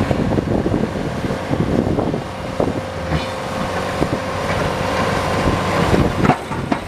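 Engine of a snow-plowing vehicle running steadily, with scattered knocks and rattles.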